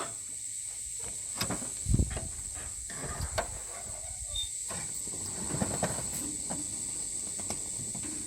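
Scattered knocks and clicks, the loudest a low thump about two seconds in, over a steady high-pitched hiss.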